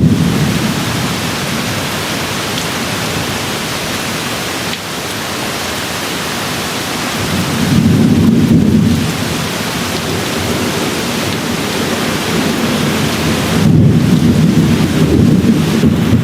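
Steady rain falling, with low rolling thunder: one rumble swells about halfway through and another rolls in near the end.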